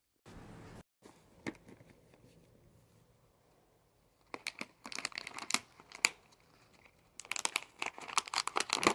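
Crinkling and tearing of crinkly material in two bouts of rapid sharp crackles, a few seconds apart, after a brief burst of hiss about half a second in.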